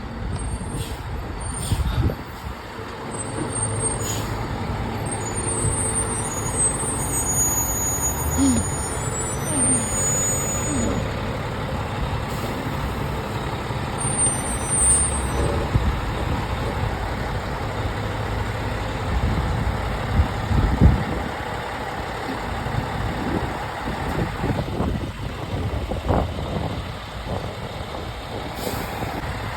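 A fire truck's diesel engine running with a steady low rumble, with a few short knocks.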